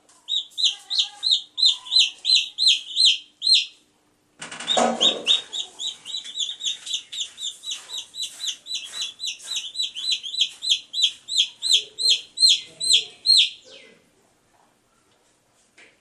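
Baby chicks peeping: a rapid series of high-pitched peeps, several a second, in two runs with a short break about four seconds in. A brief low rustle as the second run starts; the peeping stops about two seconds before the end.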